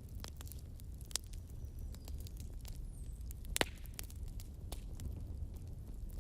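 Wood fire crackling in a fireplace: irregular sharp pops and snaps over a low rumble of the flames, with one louder pop about three and a half seconds in.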